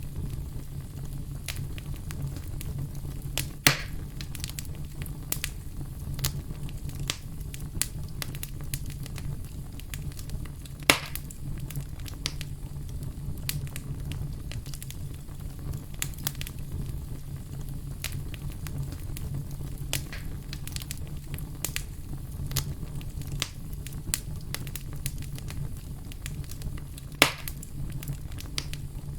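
Wood fire burning in a fireplace: a steady low rumble with constant small crackles and three louder pops.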